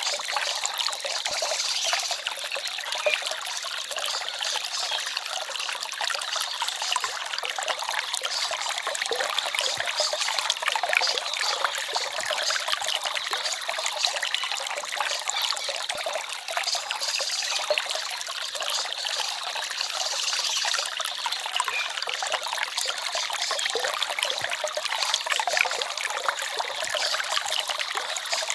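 A small forest stream babbling and trickling steadily.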